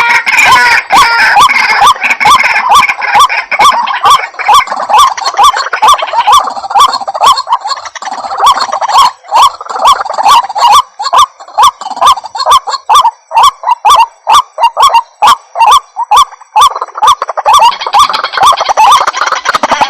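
White-breasted waterhen (ruak-ruak) calling, a lure recording: a long run of repeated croaking notes about three a second, denser and more overlapped at the start and near the end.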